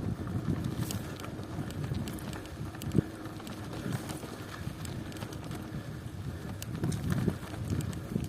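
Bicycle on the move over a rough country road: a steady low rumble of the tyres with scattered knocks and rattles, and wind on the microphone.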